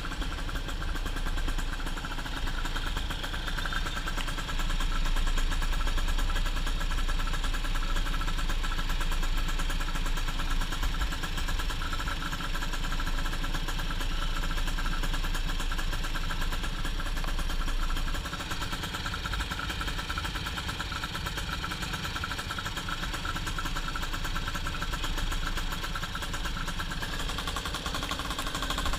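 Yamaha F1ZR's two-stroke single-cylinder engine running steadily, a little louder from about five seconds in and easing off a little near eighteen seconds.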